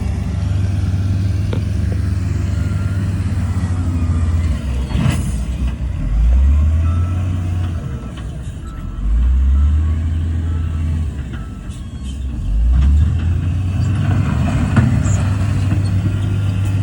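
Heavy diesel engine of earthmoving machinery running under load and revving up three times, with a metallic clank about five seconds in.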